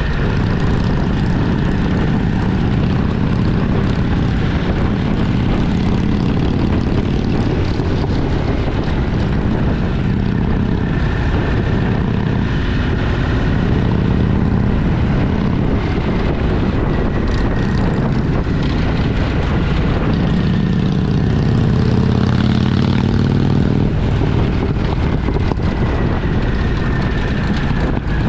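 Motorcycle engine running steadily at riding speed, mixed with wind rush over the action camera's microphone; the engine note rises and falls briefly about two-thirds of the way through.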